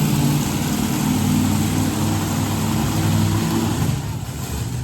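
Monster truck engine running with a low, steady drone, which fades away about three and a half seconds in.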